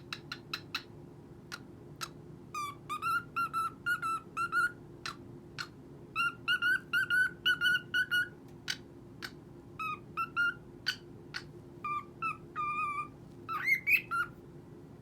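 A cockatiel whistling its song in quick runs of short, even-pitched notes, broken into several phrases, with a louder wavering note near the end. Sharp clicks fall between the phrases.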